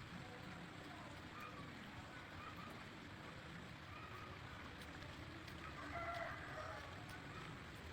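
Quiet background with faint, scattered short animal calls, a slightly louder one about six seconds in.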